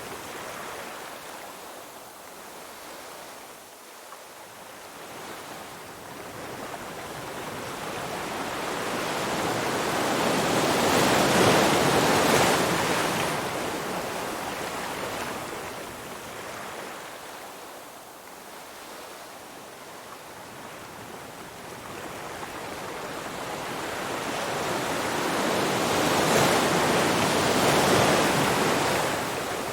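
Ocean surf: a rush of water that slowly swells and fades, with two long surges, the loudest about twelve seconds in and another near the end.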